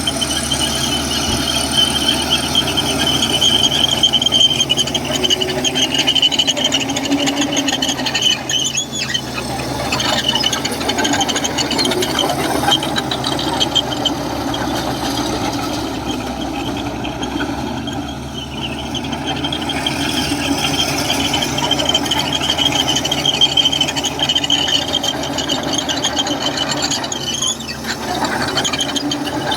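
Komatsu crawler bulldozer working, its steel tracks squealing and clanking over a steady diesel drone. The high squeal swells and fades several times as the machine moves.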